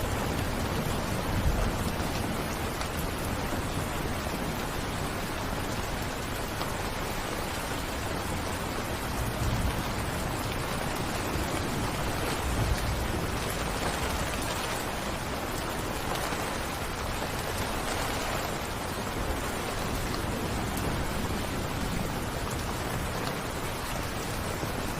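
Steady rain falling, an even hiss with a few brief low rumbles.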